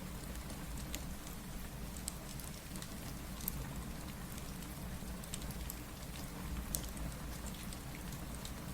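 Steady rain with a low rumble under it, dotted with scattered sharp crackles and pops from a fireplace, a couple of them louder than the rest.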